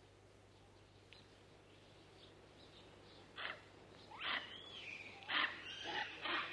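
Faint forest ambience with a low steady hum. From about three and a half seconds in comes a run of short, high animal calls that slide up and down in pitch, coming closer together near the end.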